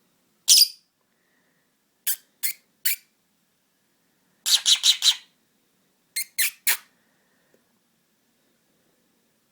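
Lovebird giving short, sharp, high-pitched squeaks in groups: a single one, then three, then a quick run of about five, then three more.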